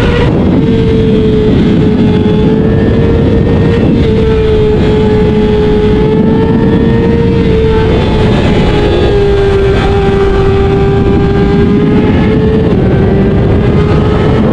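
Tuned, full-bolt-on 2024 Kawasaki ZX-6R 636 inline-four held at high revs, its engine note nearly steady and dipping slightly and recovering a few times as the bike is ridden hard.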